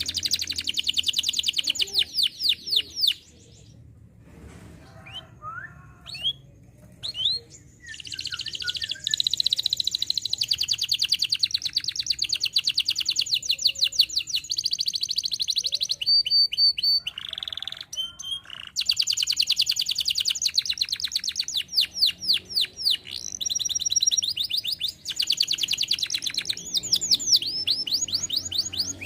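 Canary singing: long rolls of fast repeated high notes, broken by short gaps with scattered single notes about a third of the way in and again past the middle.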